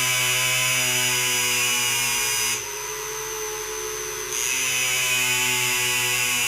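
Power tool running with a steady whine. It drops in level for a couple of seconds near the middle, then picks back up.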